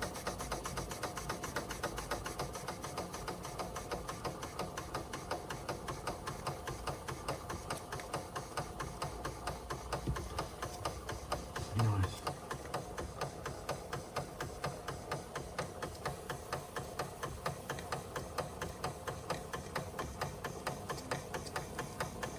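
Marklin 4149/9 live steam engine running slowly, its single cylinder chuffing and its mechanism clattering in an even rhythm of about four beats a second. A brief, louder low sound comes about halfway through.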